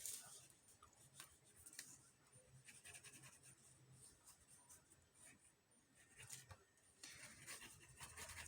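Near silence with faint, scattered rubbing and handling of paper as a glued paper decoration is pressed down onto a journal page.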